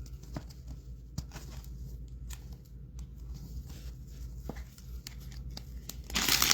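Scattered soft clicks and ticks of trading cards and packaging being handled, then about six seconds in a loud crinkling of a wrapper being torn open.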